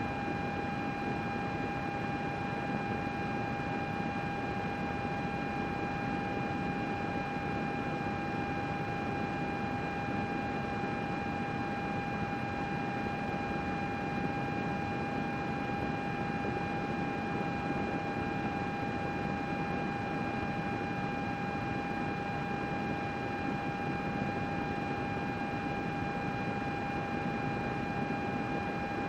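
Computer running steadily: an even fan whir with a constant high whine and its overtones above it.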